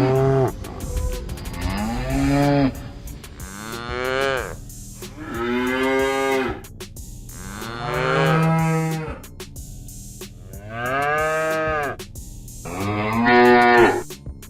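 Domestic cows mooing in a run of about six or seven long moos, each rising and then falling in pitch, with short pauses between them.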